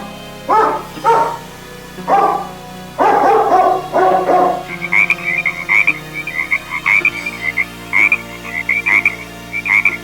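A dog barking in short bursts, several in quick succession, over about the first four and a half seconds; then a different animal call takes over, a high chirp repeated rapidly, about two a second, in short runs.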